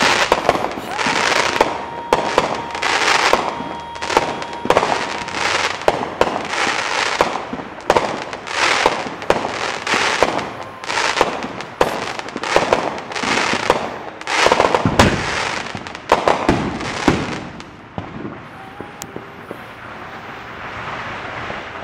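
Showtime "Texas Rattlesnake" consumer firework cake firing a quick series of shots that burst with crackle, about one a second. The shots stop about seventeen seconds in, leaving a fainter steady hiss.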